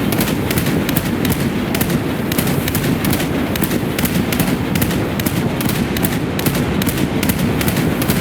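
Speedboat running at speed: a loud, steady low rumble with sharp cracks several times a second.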